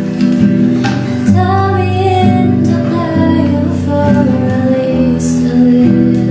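A young woman singing a slow song to acoustic guitar accompaniment.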